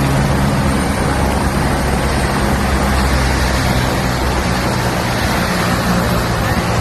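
Helicopter running: a loud, steady drone with a constant low hum over a wash of rotor and turbine noise.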